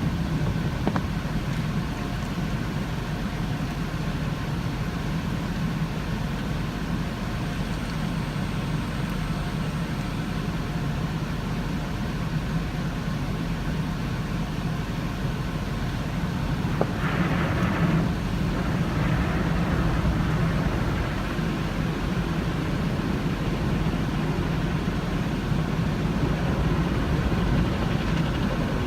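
Automatic car wash equipment running: a steady low hum under a rushing hiss, with a brief louder spray-like hiss about seventeen seconds in.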